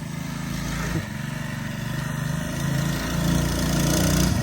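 Mini bike's small engine running under throttle, pitch rising and easing, getting steadily louder as the bike comes closer.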